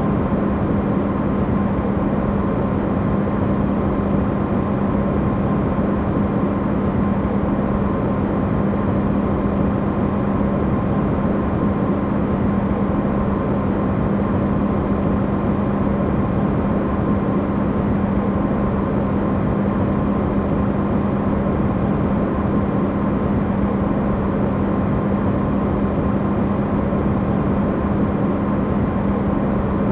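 Electrolux refrigerator running, recorded amplified: a steady, unchanging hum with a strong low tone and a fainter higher tone over an even hiss, used as white noise.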